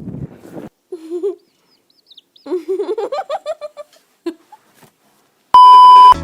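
A few short wavering vocal calls, the longest one rising in pitch, then a loud steady beep lasting about half a second that cuts off suddenly.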